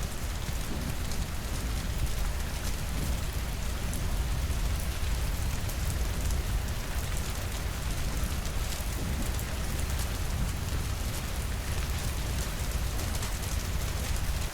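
Steady rainfall: a dense, even patter of drops over a low rumble, unchanging throughout.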